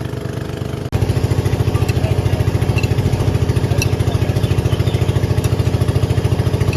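An engine running steadily with a rapid, even throb. About a second in, the sound jumps suddenly louder and stays there.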